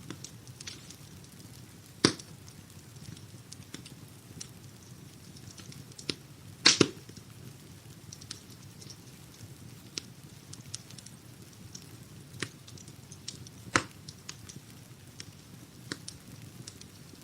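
Wood fire crackling in a fireplace: a low steady hiss with scattered small snaps and a few sharp pops, the loudest a double pop about seven seconds in.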